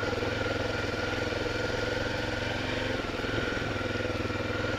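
Honda Tornado 250's single-cylinder four-stroke engine running steadily at low revs, with a slight change in pitch about three seconds in.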